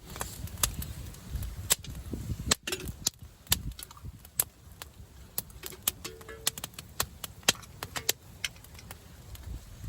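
Hailstones striking in a storm: irregular sharp ticks and taps, several a second, over a low wind rumble.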